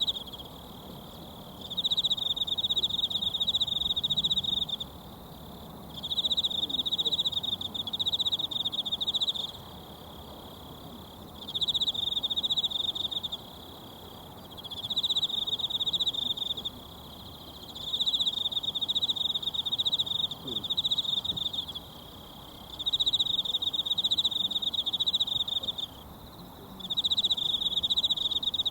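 A singing insect trills at a steady high pitch in repeated phrases of two to four seconds with short pauses between, about seven times. Beneath it runs the faint steady rush of a mountain stream.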